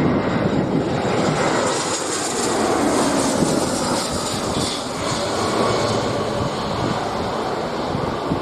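Airbus A320-214 airliner's CFM56 jet engines running steadily as it comes in to land, with gusty wind rumbling on the microphone.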